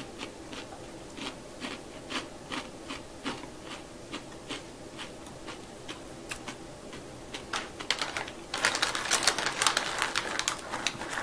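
Crunching on a roasted black rice cracker: a string of crisp, irregular crunches as it is chewed. Near the end comes about two seconds of louder crinkling from the plastic snack bag as a hand goes into it.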